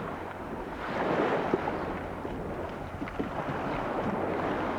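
Wind rumbling on the microphone over splashing water, swelling louder about a second in.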